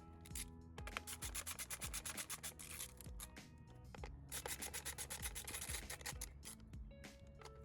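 Ratchet wrench clicking rapidly in two runs of a few seconds each, as a spark plug is turned, over soft background music.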